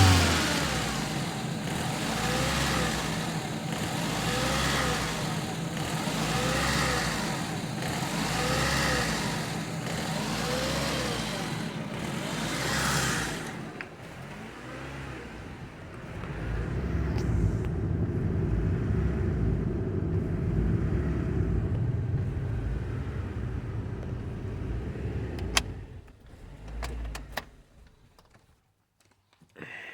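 Car engine revved in repeated throttle blips, its speed rising and falling about every two seconds, while the cooling system is being burped of trapped air; after a short dip it is held at a steady higher speed for about ten seconds, then stops near the end.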